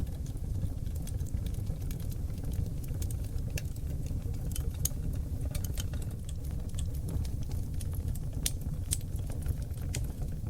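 Wood fire of seasoned oak logs burning in a fireplace: a steady low rumble of flames under frequent sharp crackles and pops, a handful of them louder than the rest.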